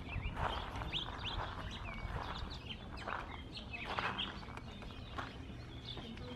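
Small birds chirping in many short, quick calls that sweep in pitch, over a few soft scuffing footsteps on a dirt path.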